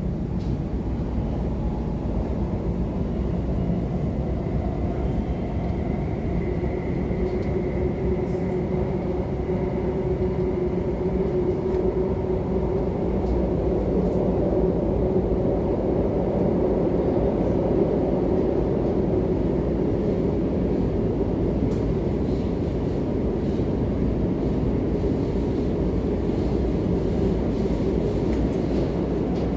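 Cabin noise of a Bombardier Class 345 electric multiple unit running at speed: a steady rumble of wheels on rail, with a faint whine in the first half. It gets a little louder about halfway as the train runs into a tunnel.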